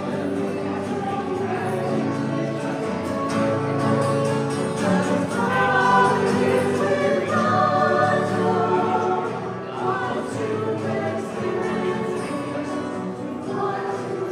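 Congregation and choir singing a hymn with accompaniment.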